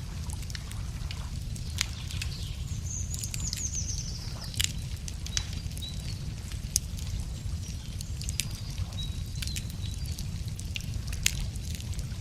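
Wood campfire crackling, with irregular sharp pops and snaps over a steady low rumble. Songbirds chirp in the background, with a fast high trill about three seconds in.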